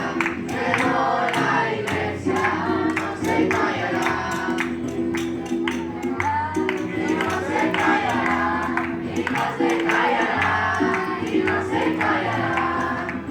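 A group of voices singing a Spanish-language worship chorus together over music with a steady beat and held bass notes.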